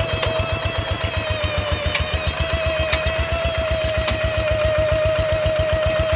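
Paddy-field tractor's diesel engine running steadily with an even chugging beat, about nine to ten a second. A steady whine rides over it, with a few light knocks about a second apart.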